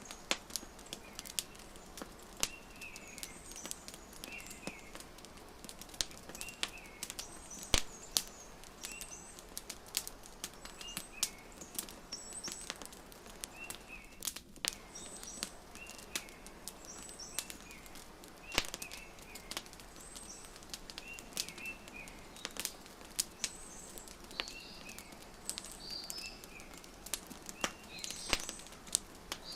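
Wood fire crackling with frequent, irregular sharp pops over a steady hiss, mixed with small birds chirping short calls again and again.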